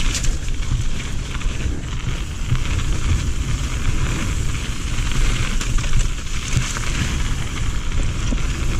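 Radon Swoop 170 mountain bike rolling fast down a rough dirt trail: steady tyre rumble and crunch over the ground, with constant clattering and rattling from the bike and some wind noise on the microphone.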